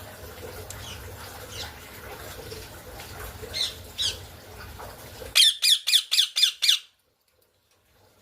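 Parrot squawking: a few scattered calls, then a rapid run of seven loud squawks at about five a second, starting just past five seconds in and stopping abruptly.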